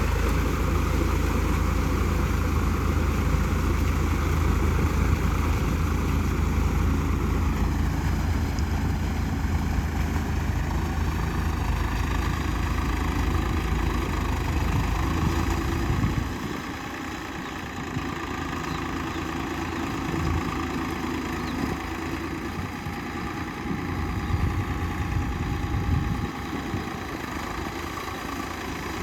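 Swraj 744 FE tractor's diesel engine running steadily. Its pitch drops about a quarter of the way in, and a little past halfway the deep rumble falls away and the engine sounds quieter.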